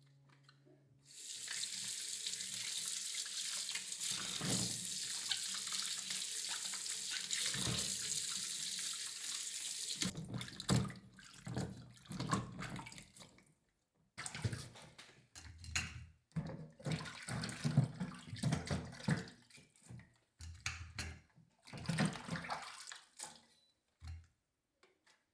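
Water tap running into a sink for about nine seconds, then turned off, followed by a series of irregular knocks and handling noises with short pauses between them.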